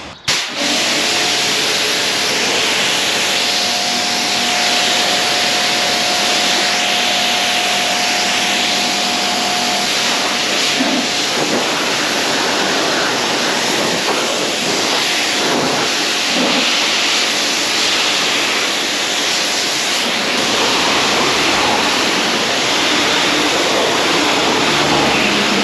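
Pressure washer spraying water onto a car, a steady hiss that starts abruptly just after the opening and holds throughout, with a faint steady hum under it for the first half.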